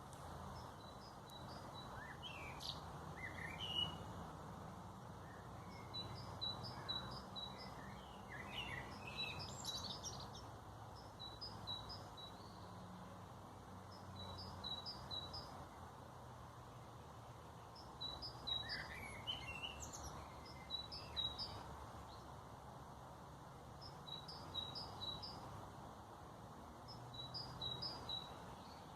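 Songbirds calling in the open air: a short high chirp repeated in quick runs of several notes, with a few louder warbling song phrases now and then, over a faint steady low background rumble.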